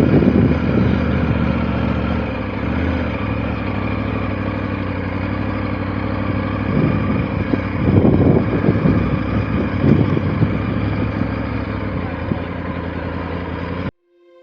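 Motorcycle engine running steadily at low speed, with a few louder, rougher surges around the middle. It cuts off abruptly shortly before the end.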